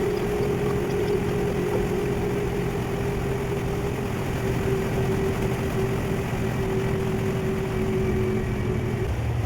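Passenger ferry's engine running steadily, a continuous low hum with a steady whine that ends shortly before the end.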